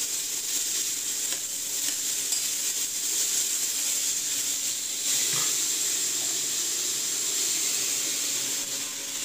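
Diced bell peppers and pineapple sizzling in a stainless steel frying pan, with a steady hiss and the occasional scrape and click of a spatula stirring them.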